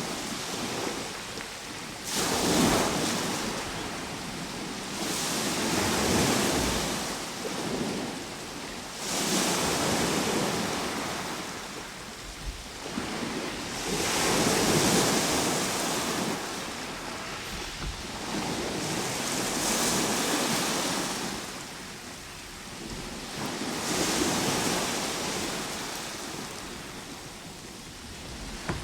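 Ocean surf: waves wash in and fall away in steady surges, about one every four to five seconds.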